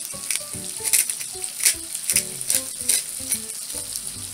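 Salmon fillets and a chicken breast sizzling steadily in melted butter in an electric skillet, with the irregular crunching clicks of a hand pepper mill grinding peppercorns over them.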